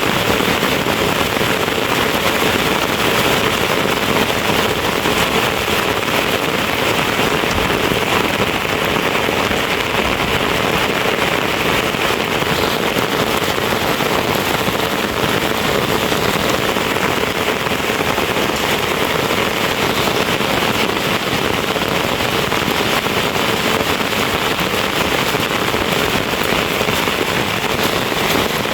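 A steady, dense crackling hiss that goes on unchanged throughout.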